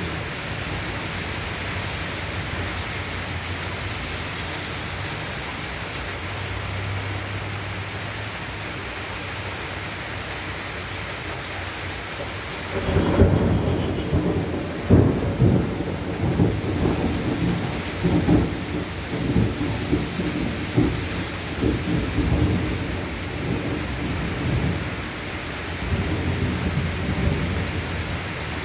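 Steady hiss of rain throughout. About 13 seconds in, thunder breaks in with sharp cracks and rumbles on in irregular waves for about ten seconds before dying down.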